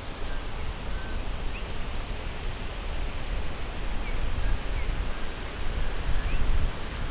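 Wind gusting on the microphone, a low rumble that builds and eases near the end, over a steady rushing hiss of forest ambience. Faint, short bird chirps come through now and then.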